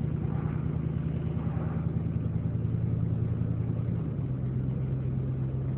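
Truck engine running steadily while driving, with road noise, heard from inside the cab; the engine note drops slightly about four seconds in.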